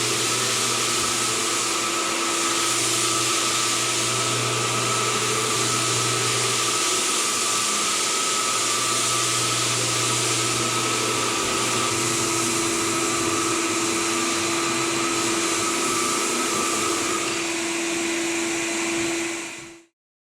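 Floor buffer running steadily, screening a sealed hardwood floor between coats: an even electric-motor drone with a steady hum. It cuts off suddenly near the end.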